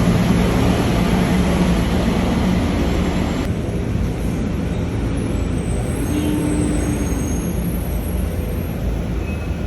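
City street traffic: a steady low rumble of vehicle engines, with heavy vehicles such as buses among them.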